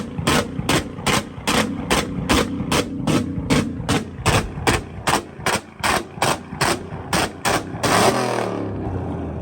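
Car engine held on a two-step launch-control rev limiter, letting out sharp exhaust pops and bangs about three times a second. Near the end the pops stop briefly and the engine's pitch falls as the revs drop.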